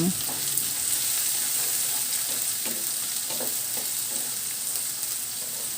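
Chopped onions sizzling in hot oil with whole spices, stirred in the pan now and then. A steady high sizzle that eases slightly, with a few faint scrapes.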